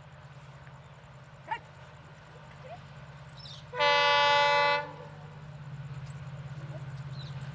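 Indian Railways locomotive horn sounding one blast of about a second, about four seconds in, over a steady low rumble of the approaching express train that grows louder near the end.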